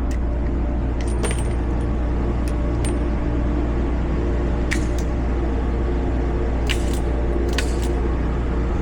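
A steady low hum with a few faint, light clicks and ticks scattered through it, the kind made by handling a revolver and cartridges between shots. No shots are fired.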